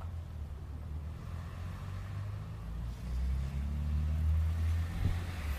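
A car engine running with a low, steady rumble that grows louder about three seconds in.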